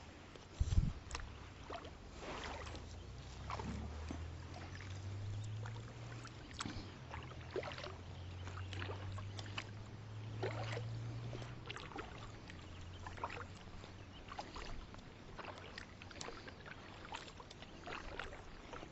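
Light ticks, knocks and small water sounds around a fishing kayak on the water, with a low hum from about three seconds in until about thirteen seconds in.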